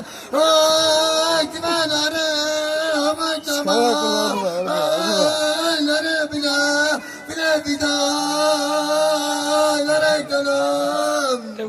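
A man singing a folk song in long held notes, with a run of quick ornamented turns a few seconds in.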